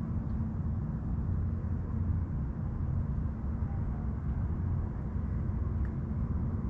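Steady low drone of a distant motor, with a constant hum under a rumble and no change in pitch. Faint, brief bird chirps sound above it.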